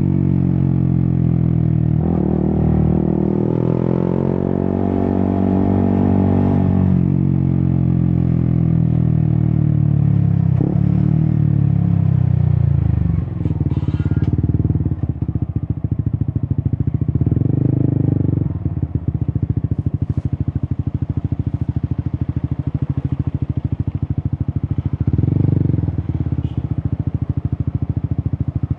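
Yamaha XSR 155's single-cylinder engine through an Akrapovic exhaust, revving up through the gears with the pitch dropping at each shift, then easing off. From about halfway it settles to a low, pulsing idle with two short throttle blips.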